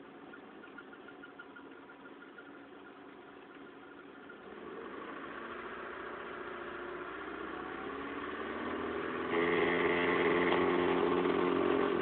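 Car engine heard from inside the cabin, idling and then brought up to higher revs. The engine grows louder about four and a half seconds in, steps up sharply to a held high rev about nine seconds in, and drops back near the end.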